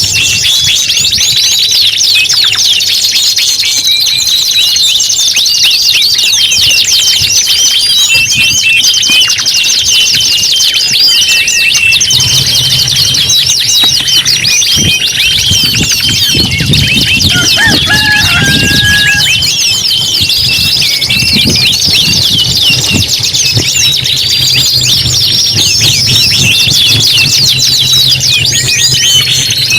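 Several domestic canaries singing together without a break: dense, rapid trills and rolling runs, loud and steady.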